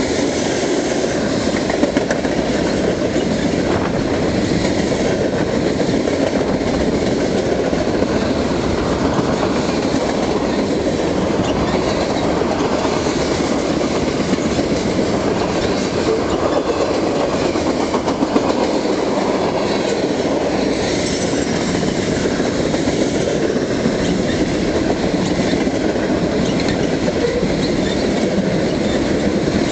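Train cars rolling past on the track close by: a steady, unbroken rumble of steel wheels on rail.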